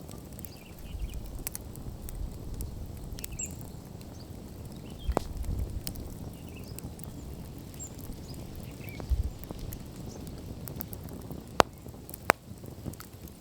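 Wood fire crackling, with scattered small clicks and two sharp loud pops near the end.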